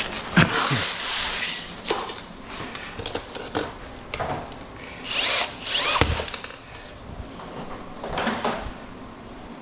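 A handheld power tool run in three short bursts of about a second each, its pitch falling away as the first and second bursts end.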